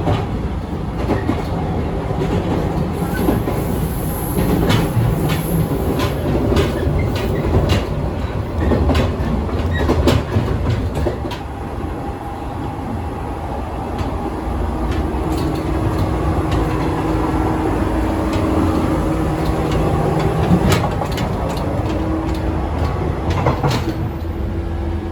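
A JR West 115 series electric train running, heard from on board: a steady rumble with the wheels clicking over rail joints. A steady hum joins about halfway through.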